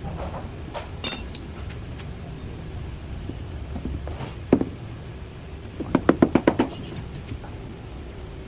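Sharp knocks over a steady low rumble, then a quick run of about eight taps about six seconds in.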